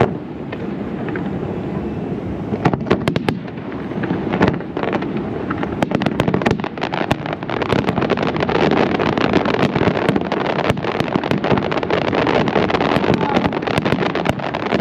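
Aerial fireworks going off in a stream of sharp bangs and cracks that come faster and closer together from about halfway through, over a steady rumbling background noise.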